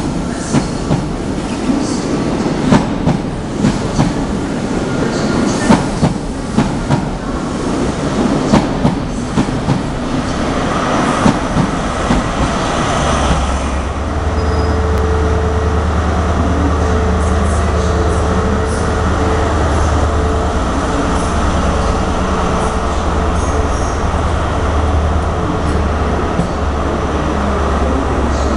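InterCity 125 high-speed train with Mark 3 coaches rolling along the platform: the wheels click and knock over rail joints, with some squeal. About halfway in, a steady low diesel drone from the Class 43 power car takes over.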